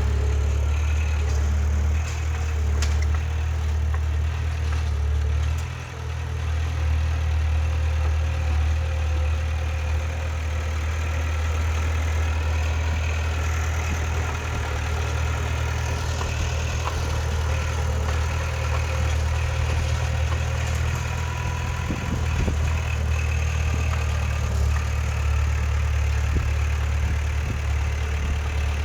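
Heavy diesel engine of earthmoving machinery running steadily, with a brief drop in level about six seconds in.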